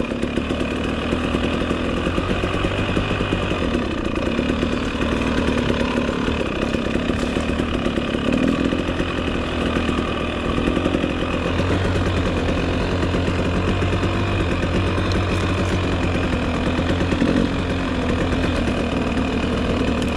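Dirt bike engine running steadily through a ride, with only small changes in revs.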